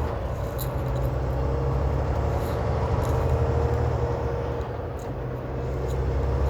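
Semi truck's diesel engine running steadily, heard inside the cab as a low drone with road noise, plus a few faint ticks.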